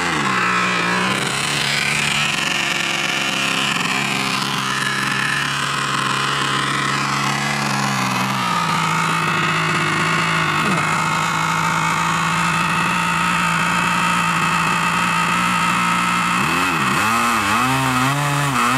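A Thunder Tiger glow engine on an RC model plane running on the ground. It is throttled back sharply at the start and settles to a steady idle, drops a little lower about eight seconds in, then is blipped up and down over the last couple of seconds.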